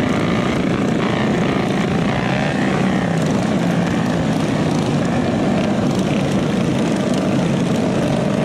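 Small minibike engine running steadily, a loud continuous drone.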